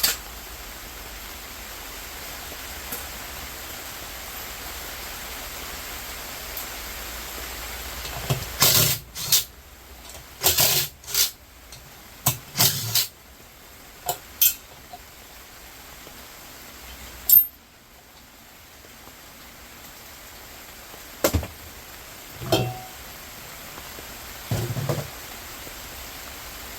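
Metal clanking and clinking as pieces of scrap metal are handled and dropped: a quick run of strikes about eight to fifteen seconds in, a single loud one a few seconds later, and a few more near the end, over a steady hiss.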